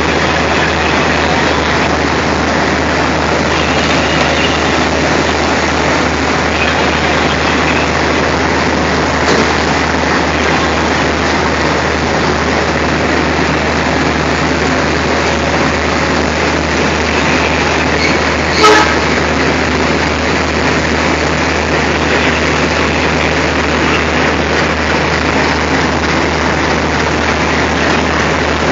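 Diesel locomotive engine running steadily with a deep, constant hum. A single sharp knock comes about two-thirds of the way through.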